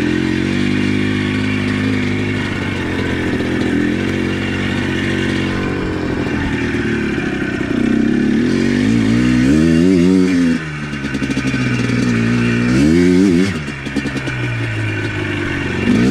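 ATV engine running at low revs, then revved up and back down twice in the second half.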